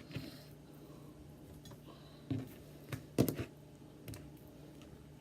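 Kitchen knife cutting through raw chicken and knocking on a cutting board: a few separate sharp knocks, the loudest ones about three seconds in.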